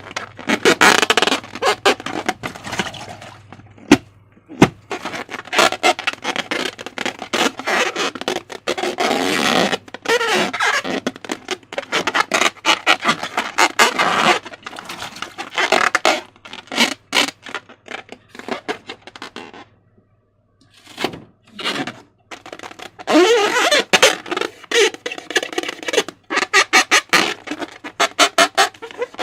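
Slime being squished and stretched by hand: dense wet crackling and squelching with many small pops, in spells of a few seconds. There is a sharp click about four seconds in and a brief pause about twenty seconds in.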